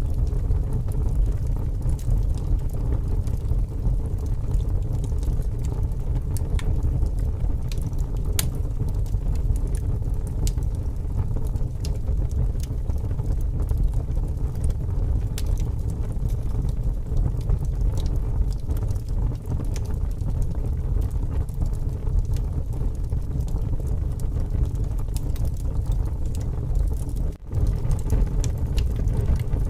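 Strong wind rumbling over a wood campfire, with scattered crackles and pops from the burning logs. The sound dips out for a moment near the end.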